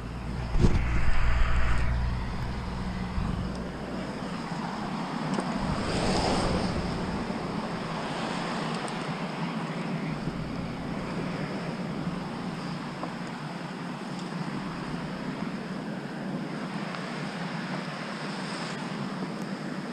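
Road traffic: a vehicle passes about six seconds in, its noise rising and falling, over a steady wash of traffic. A heavy low rumble with a knock comes in the first two seconds.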